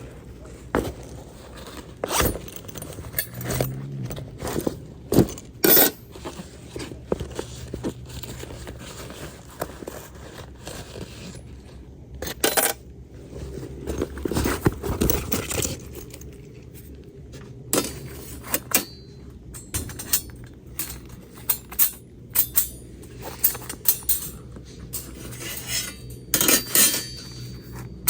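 Metal cookware and utensils clinking and scraping, with irregular sharp knocks and clatters.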